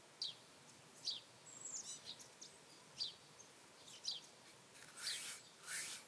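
Faint songbird chirps: short, high, falling calls roughly once a second, with a quick trill about a second and a half in. Near the end, a few louder bursts of hissing rubbing noise as a hand rubs the carved wooden bowl.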